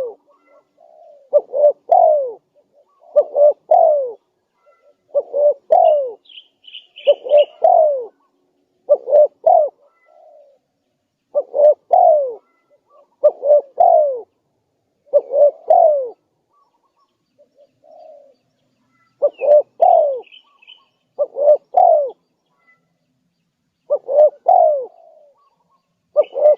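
Spotted dove cooing over and over, a short phrase every one and a half to two seconds, with a brief pause about two-thirds of the way through. A small bird chirps faintly a few times behind it.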